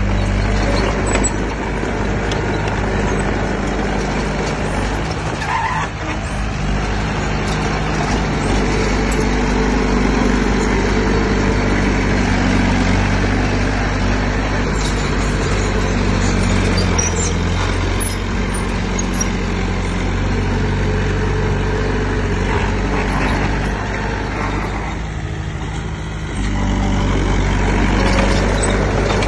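Heavy diesel machinery engine running steadily under load. It eases off briefly about 25 seconds in, then comes back up louder.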